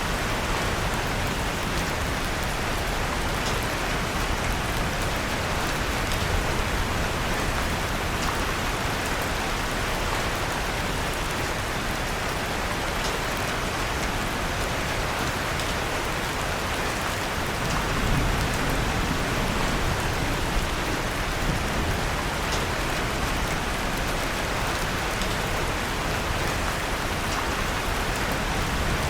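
Steady rain, an even hiss, with a few faint crackles from a wood fire in a fireplace. A low rumble swells briefly a little past the middle.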